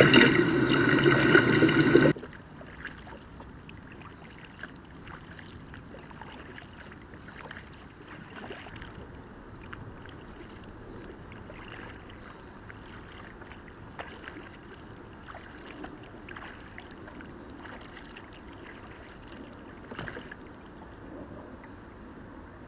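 A loud sound made of steady tones stops abruptly about two seconds in. It is followed by a kayak being paddled on calm water: faint dipping and swishing of the paddle with scattered light knocks against the hull.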